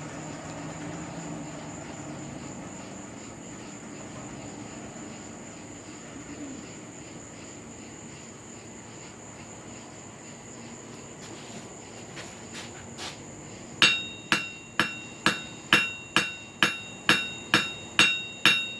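A forge's steady rush, then a few light taps, and from about two-thirds of the way in a steady run of small-hammer blows on the anvil, about two a second, each with a bright ring. The blows are drawing the hot tip of a carbon-steel cut nail out to a point.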